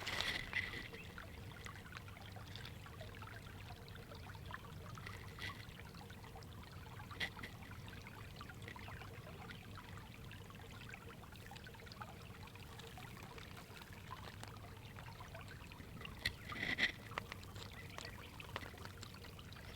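A brook babbling and trickling softly and steadily. About three-quarters of the way through, a few short, sharper sounds briefly stand out above the water.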